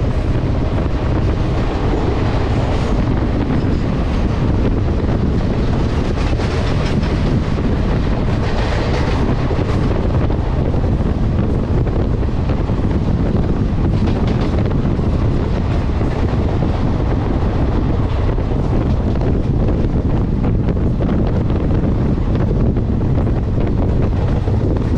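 Passenger train running at speed, heard from on board: a steady low rumble of the coaches on the track with wind buffeting the microphone.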